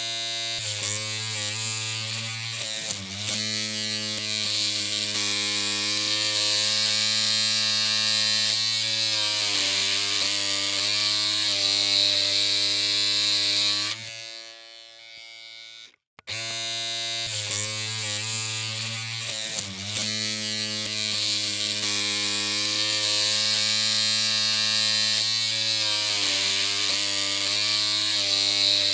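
Electric hair clippers running with a steady buzzing hum. They cut off about halfway through and start again about two seconds later.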